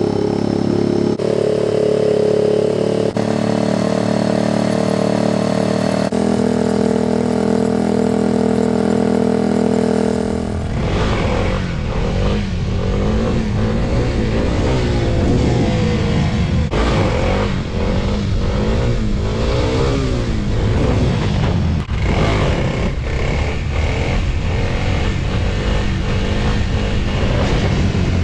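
SSR 125 pit bike's single-cylinder four-stroke engine running steadily after starting up from months of sitting. About ten seconds in, the sound changes to the engine revving up and down repeatedly.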